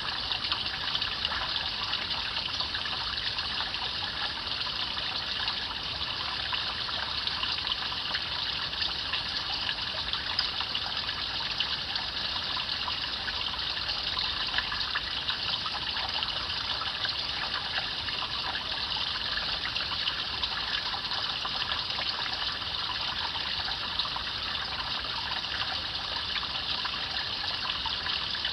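A shallow stream babbling steadily over stones, a constant rush of water with fine splashing.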